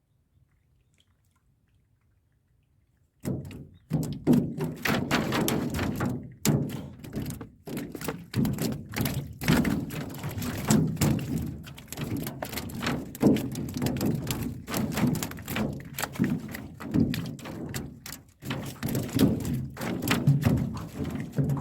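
Near silence, then about three seconds in a long run of dense, irregular hollow thunks and knocks begins: a fish trap being handled and emptied in a small boat.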